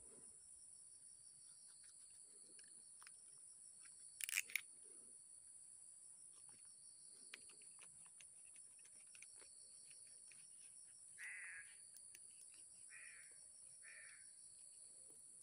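Quiet outdoor ambience: a steady high-pitched drone, a few short bird calls like caws near the end, and two sharp clicks about four seconds in.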